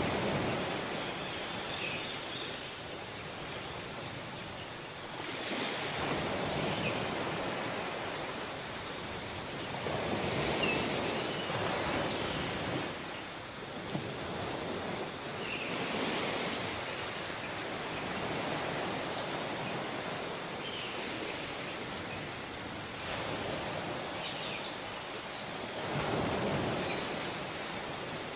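Sea waves washing onto a beach, the surf swelling and falling back every few seconds.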